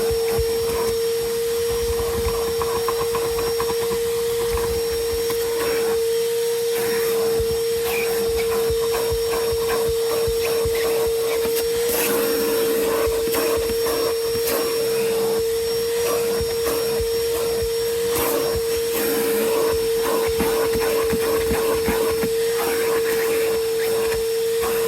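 Vacuum cleaner running steadily, a constant whine over rushing air, with irregular scrapes and knocks as it works over the truck's interior.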